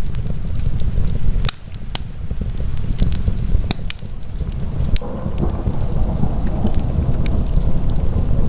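Wood fire in a fireplace crackling, with frequent sharp pops and snaps over a strong steady low rumble.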